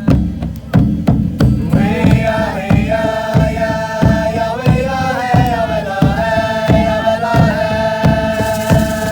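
Live devotional mantra song: hand drums keep a steady beat about twice a second while a voice sings long, held notes from about two seconds in, and a shaker comes in near the end.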